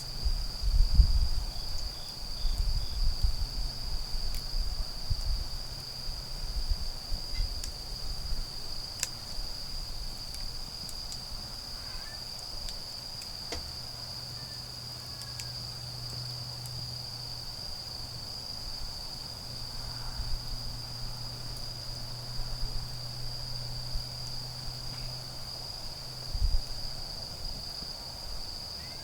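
Autumn crickets singing in one continuous high trill. Low rumbling thumps come in the first several seconds and once more near the end, with a few faint clicks.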